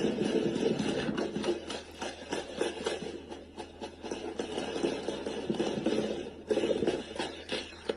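Sustained gunfire: many shots in quick, irregular succession, several a second, during a long shootout.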